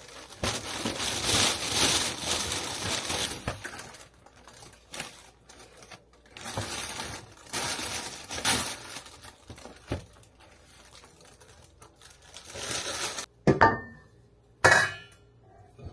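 Table and kitchen handling sounds: three bursts of crinkling, then two sharp clinks of dishes near the end.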